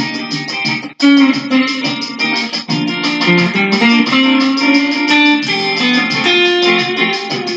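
Guitar music: fast runs of plucked notes, with a brief break about a second in.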